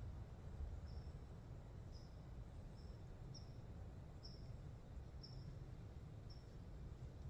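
Faint woodland ambience with a low steady rumble, over which a small bird gives short, high, slightly falling chirps about every half second to a second.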